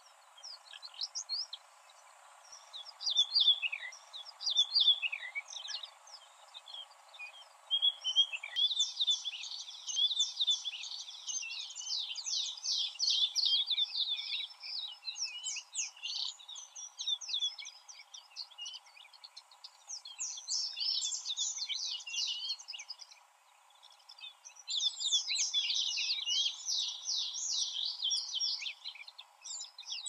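Small birds chirping and singing: scattered quick high notes at first, then dense chattering bursts of rapid repeated notes that come and go several times.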